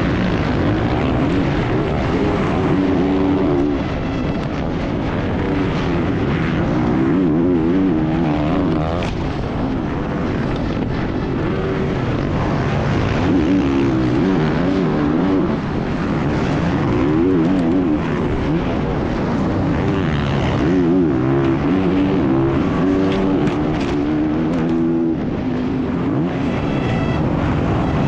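Dirt bike engine revving up and falling back over and over as the rider works the throttle and gears. The engine is heard through an onboard action camera, with wind noise over it.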